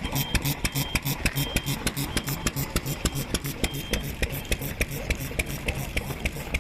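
Vintage stationary kerosene engine (hatsudōki) running steadily, a fast even beat of sharp clicks over a low pulsing exhaust.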